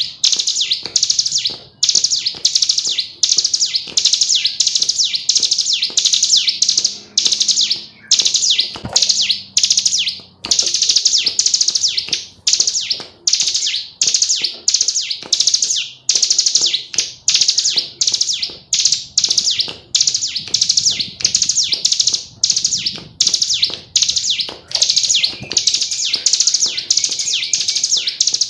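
Female ciblek gunung (a prinia) calling in rapid, high-pitched chattering trills, repeated in bursts about a second long with barely a pause between them.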